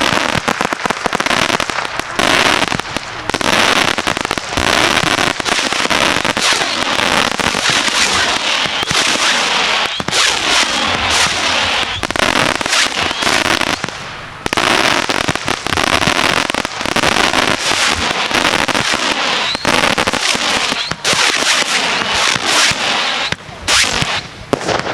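Fireworks going off in a dense, continuous crackle of rapid bangs and bursts, easing briefly about fourteen seconds in.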